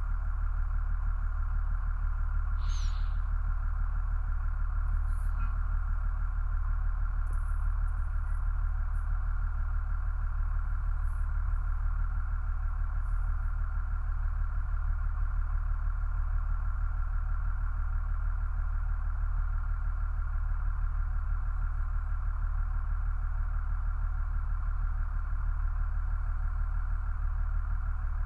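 A vehicle engine idling steadily, a low even hum that does not rise or fall, with a brief high chirp about three seconds in.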